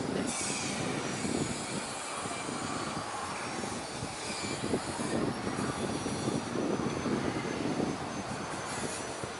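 Jet airliner engines running: a steady rushing noise with a faint high whine over it.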